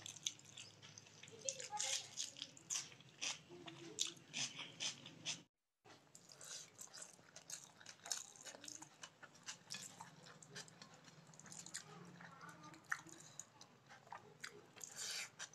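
Close-miked chewing of hand-eaten rice, dal and cabbage-potato sabzi, full of quick wet mouth clicks and lip smacks. The sound cuts out completely for a moment about five and a half seconds in.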